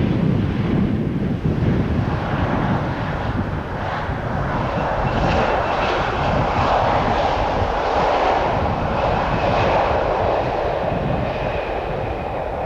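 Jet airliner passing close on final approach, a loud steady engine rush that builds after the first couple of seconds, with a faint high fan whine.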